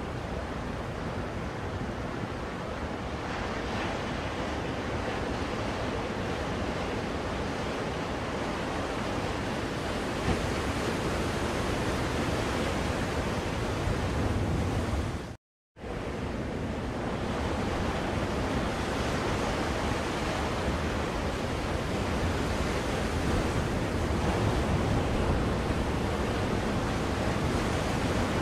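Ocean waves washing in a steady, even surf. The sound cuts out completely for a moment about halfway through, then resumes.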